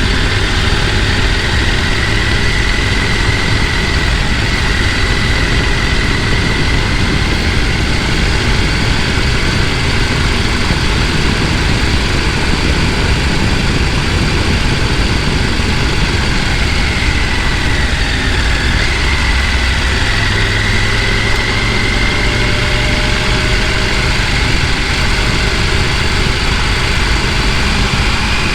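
Mountain stream rushing over rocks, a loud, steady roar of water, with a faint wavering high tone above it.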